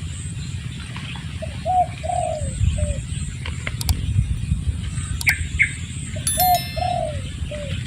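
A dove cooing a four-note phrase twice, once about a second in and again about six seconds in, over a low steady rumble. A few small-bird chirps and sharp clicks can be heard in between.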